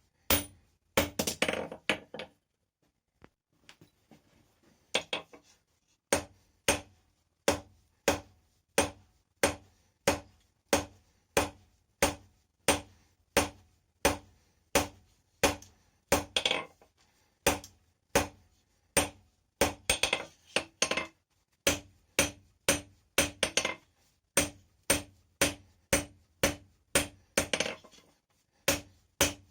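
Hand hammer striking hot steel on an anvil, each blow ringing briefly. After a short flurry and a pause of a couple of seconds, the blows settle into a steady rhythm of about one and a half a second.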